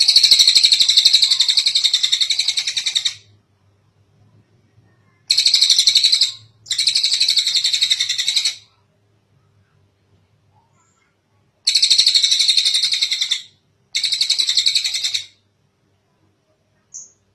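Tengek cililin bird singing in five high, rapid trills of fast-repeated notes, each lasting one and a half to three seconds with short pauses between; the first is the longest, and two pairs follow close together.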